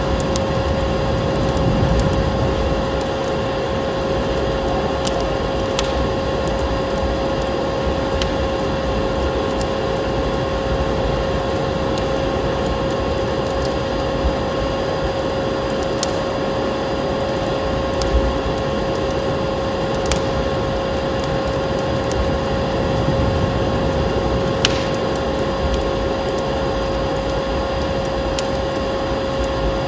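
Wood fire crackling in a fireplace, with scattered sharp pops every second or few, over a steady rushing noise and a steady hum.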